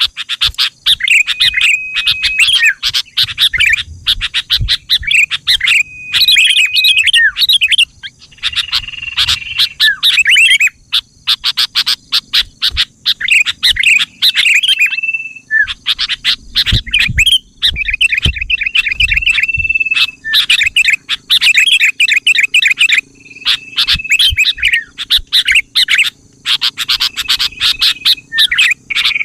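Sooty-headed bulbul (kutilang) calls in loud bursts of rapid chattering notes, broken every few seconds by a short steady whistled note. A faint steady high-pitched buzz runs behind.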